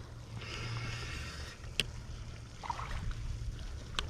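Fishing reel being cranked in two short spells as a bass is reeled in, over a steady low rumble, with a couple of sharp clicks.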